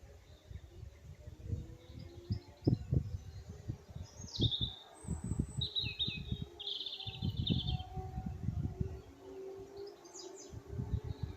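Small birds chirping and twittering in short bursts, busiest in the middle, over an uneven low rumble.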